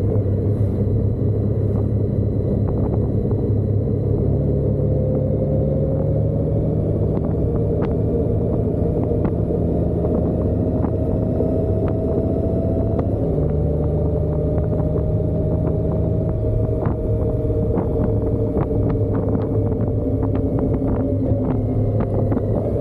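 Motorcycle engine running at a steady speed under heavy low noise, its pitch shifting slightly about halfway through, with scattered light ticks.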